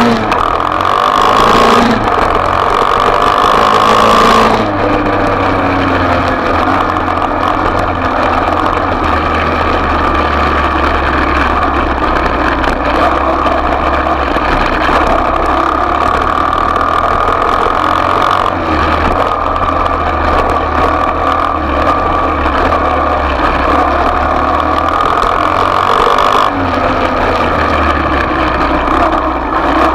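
Small single-cylinder off-road motorbike engine running as it is ridden, its revs rising and falling, loudest in the first few seconds.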